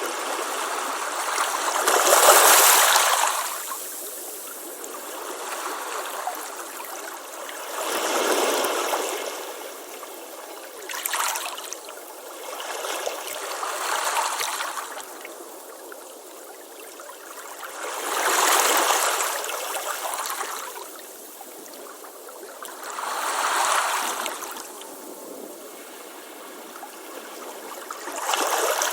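Ocean waves breaking and washing up a beach: a steady hiss of surf that swells with each breaking wave every few seconds, the biggest about two seconds in.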